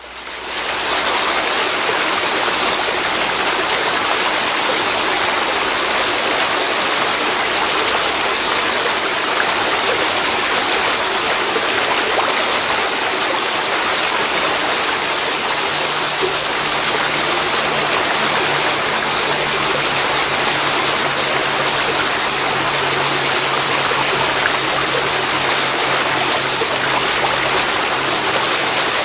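Waterfall pouring into a river, a steady, even rush of falling and flowing water that fades in over the first second.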